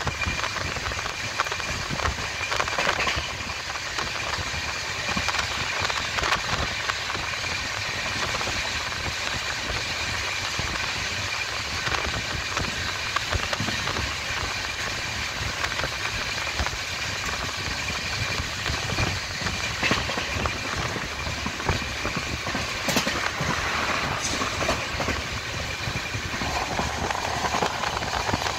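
Karnavati Express passenger train running at speed, heard from an open coach doorway: a steady rumble and rattle of wheels on the rails, with irregular sharp clicks and clacks through the station trackwork and a thin steady high tone.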